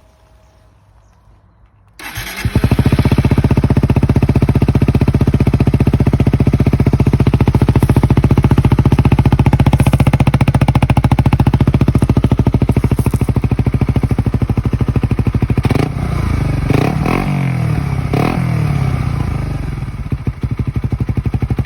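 A 2018 Suzuki GSX-S 125's single-cylinder four-stroke engine, breathing through an Arrow full exhaust system, starting about two seconds in and then idling with an even, fast beat. Near the end it is blipped several times, each rev rising and falling quickly.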